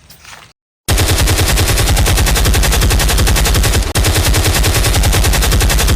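Rapid automatic gunfire sound effect: a very fast, loud stream of shots lasting about five seconds, with a brief break midway. It starts and cuts off abruptly and comes from a toy airsoft pistol's loudspeaker, not a real gun.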